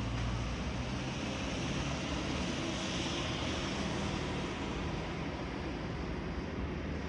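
A car passing on the road, its tyre noise rising to a peak about three seconds in and then fading away.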